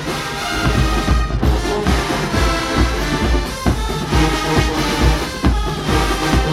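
Marching band brass playing a tune over a heavy bass-drum and percussion beat.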